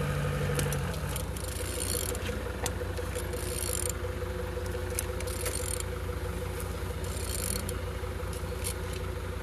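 An Opel A16XER 1.6-litre four-cylinder petrol engine being turned over by hand with a wrench, with repeated ratcheting clicks every second or two over a steady hum. It turns freely: the engine is not seized.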